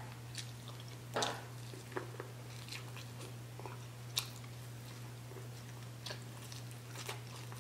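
Close-miked biting and chewing on a piece of boiled corn on the cob: scattered soft wet smacks and small crunches, the sharpest about four seconds in, over a steady low hum.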